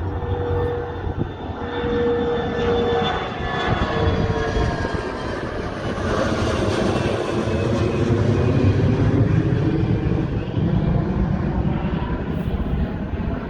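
Jet airliner taking off and passing close by: the engine roar builds to its loudest about eight or nine seconds in, and its whine falls in pitch as the plane goes past.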